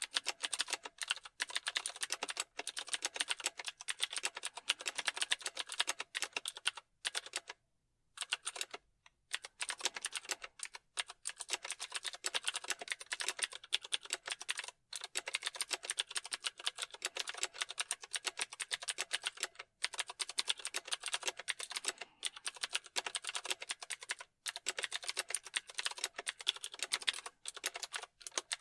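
Fast, continuous typing on a computer keyboard: rapid keystroke clicks, broken by a pause of a second or two about seven seconds in and a few brief stops later.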